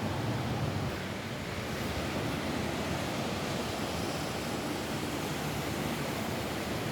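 Steady rain falling on a roof: an even rushing noise without breaks, heaviest in the low range.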